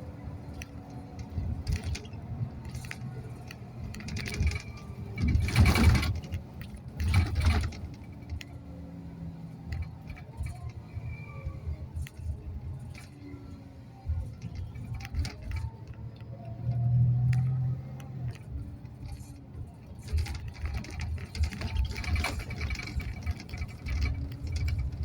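Inside a moving bus: low engine and road rumble with the interior rattling and clinking. Two louder rushes of noise come about six and seven seconds in.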